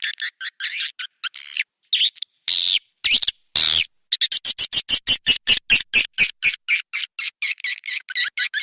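Swiftlet calls from a swiftlet-house lure recording: a rapid train of short, repeated chirps, about five to eight a second, broken about two and a half seconds in by a few longer, louder calls.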